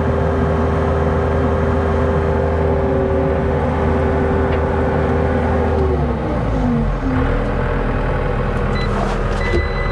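Skid steer engine running hard with a steady whine, then throttled back about six seconds in, its pitch falling and settling lower.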